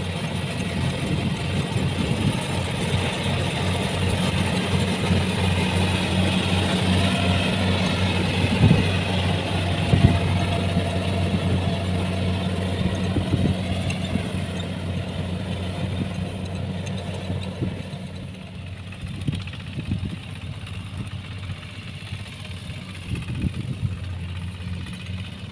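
Kubota combine harvester's diesel engine running steadily, with scattered knocks and rattles; the sound grows quieter about two-thirds of the way through.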